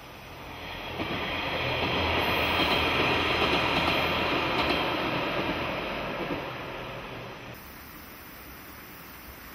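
AN-8900 diesel railcar running past while crossing a concrete girder bridge: its engine and running noise swell to a peak a couple of seconds in, then fade away. Near the end it gives way to a quieter steady hiss.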